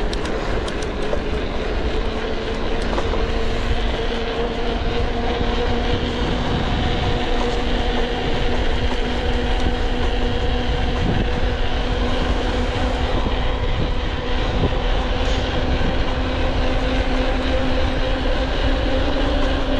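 Mountain bike ridden fast downhill: a steady rush of tyre and wind noise with a humming tone that slowly rises in pitch as the bike gathers speed.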